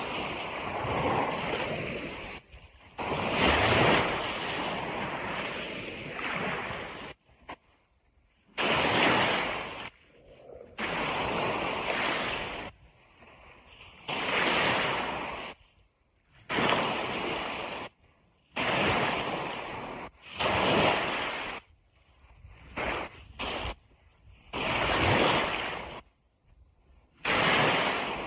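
Ocean surf washing in surges of a second or two, about one every two seconds. Each surge starts and stops abruptly, with much quieter gaps between them.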